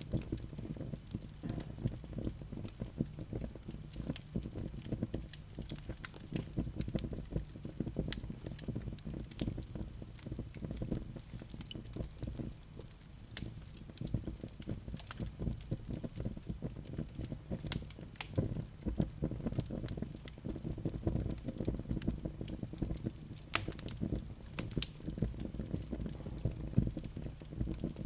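Wood fire burning in a fireplace: a steady low rumble of flames, with frequent, irregular sharp crackles and pops from the burning wood.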